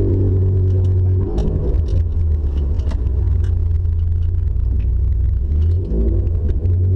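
BMW E36 316i's 1.6-litre four-cylinder engine running through an open straight-pipe exhaust, heard from inside the car as a loud low drone. The drone is steady for the first second or so and again near the end; in between it turns rough and uneven, with scattered sharp pops and clicks.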